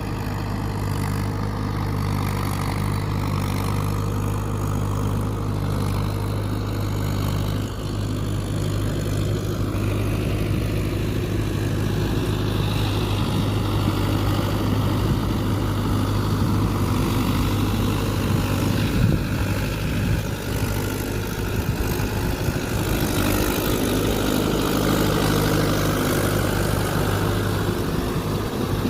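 Tractor diesel engine running with a steady low hum, the note turning rougher and busier through the middle as it works under load, then steadying again near the end.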